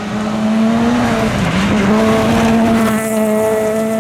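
VAZ 2113 rally car's four-cylinder engine running hard at high revs. Its pitch dips briefly about one and a half seconds in, then pulls back up. A hiss of tyre noise swells through the middle.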